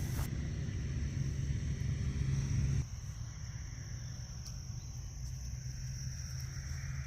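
Insects shrilling in one steady high tone over a low rumble, which drops off abruptly about three seconds in. A soft rushing noise grows toward the end.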